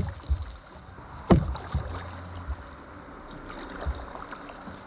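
Kayaking on open water: a paddle working in the water with a steady soft wash, a sharp knock about a second in and a few lighter knocks against the kayaks.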